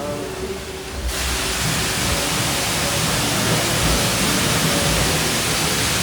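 Self-serve car wash high-pressure spray wand running: a steady hiss of spraying water that starts abruptly about a second in.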